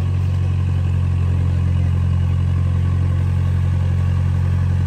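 Off-road four-wheel-drive vehicle's engine running at a steady low idle, kept running while a winch hauls a vehicle out of mud.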